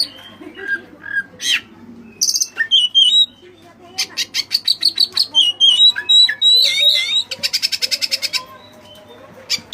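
Oriental magpie-robin (white-breasted kacer) singing a varied song: short whistled notes and slurs mixed with fast rattling trills, two of them long, about four and seven seconds in.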